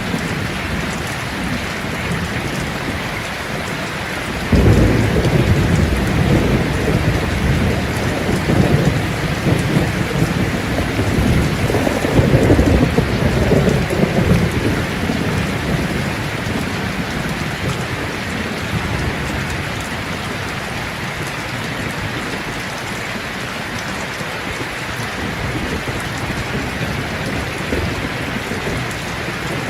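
Steady rain with a long roll of thunder: the deep rumble breaks in suddenly about four seconds in, swells again midway and then fades away, leaving the rain alone.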